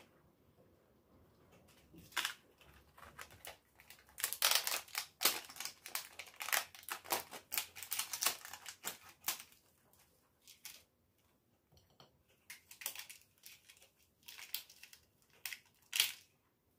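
Rapid, irregular clicks and taps from objects being handled by hand, densest from about four to nine seconds in, then sparser.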